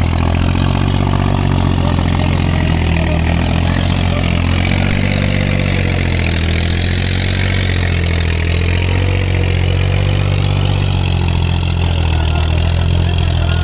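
An engine idling steadily, with an even low hum throughout.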